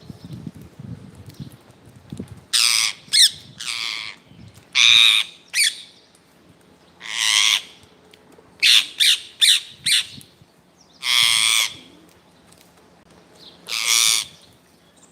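Parrot squawking: about a dozen loud, harsh calls, some drawn out and some short in quick runs, separated by pauses of a second or more.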